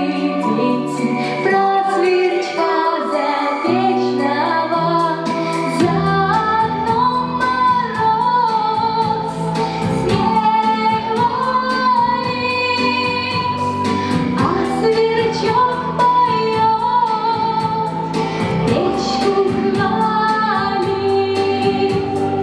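A song: a woman's singing voice over backing music with bass notes and a steady beat.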